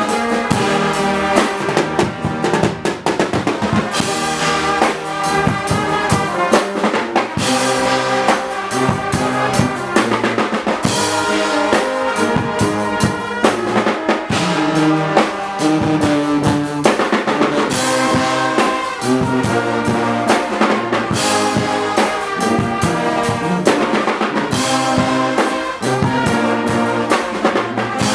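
Guggenmusik band of brass and drums playing a loud carnival piece: trumpets and trombones over bass drum and snare, with steady beats all through.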